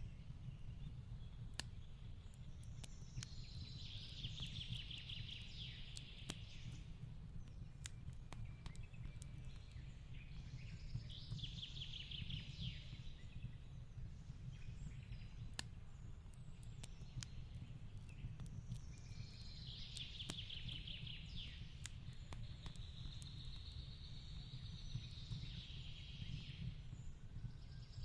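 Fireplace crackling, with scattered sharp pops over a low steady rumble. A songbird sings a short trilling phrase every seven or eight seconds, four times.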